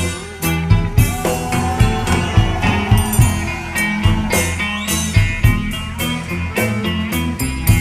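A band playing an instrumental passage: guitar over bass and drums with a steady beat.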